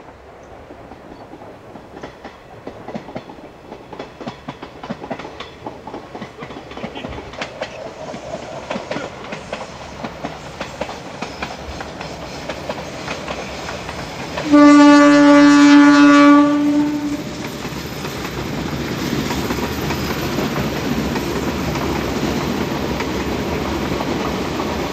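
A train running along the line, its wheels clicking over the rail joints and growing louder as it nears. A little past halfway it sounds one long horn blast of about two and a half seconds, the loudest sound here, and then its running rumble carries on steadily as it passes.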